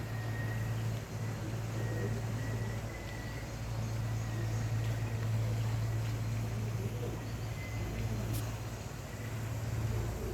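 A steady low hum over background noise, with a faint thin high tone in the first few seconds and a single short click about eight seconds in.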